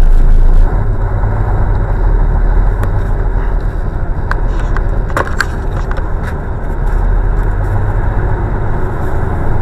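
Steady low rumble of a vehicle driving, with engine and road noise, and a few sharp clicks or knocks about five seconds in.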